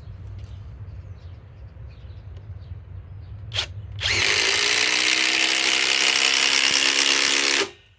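Harbor Freight Hercules 2200 in-lb cordless impact driver driving a 5/16 by 3 inch lag screw into wood. It runs for about three and a half seconds from about four seconds in, then stops suddenly. A single click comes shortly before it starts.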